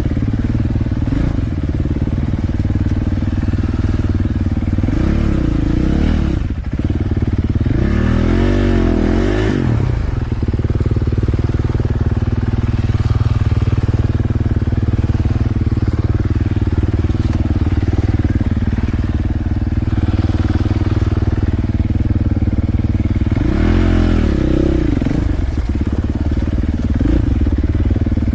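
Off-road vehicle engine running steadily and revving up and back down several times, most strongly about nine seconds in and again near 24 seconds.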